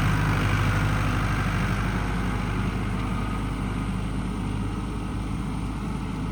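Engine running at a steady speed with a low hum, slowly getting fainter.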